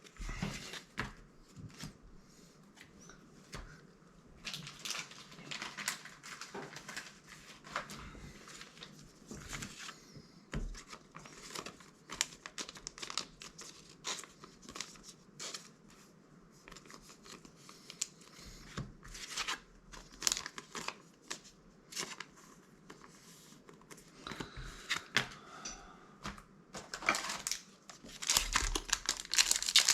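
Foil wrapper of a Magic: The Gathering set booster pack crinkling and tearing as it is handled and opened, in many short irregular bursts that grow louder and denser near the end.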